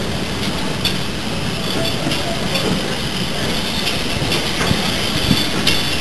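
Railway coaches rolling past at close range: a steady rumble with occasional wheel clicks over the rail joints.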